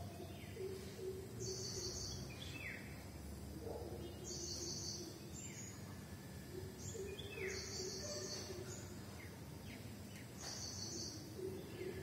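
Birds chirping: one bird repeats a high, buzzy trilled phrase about every three seconds, with short falling chirps from other birds in between, over a steady low background hum.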